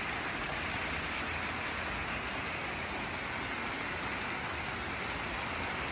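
Steady rain falling in a storm: an even hiss of water with no single drops standing out.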